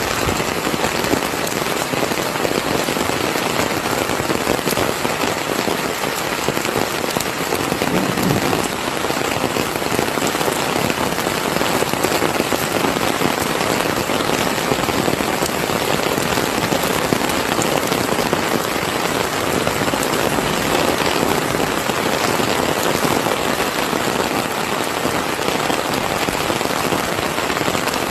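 Heavy rain falling steadily, a dense, even hiss of drops with no letting up.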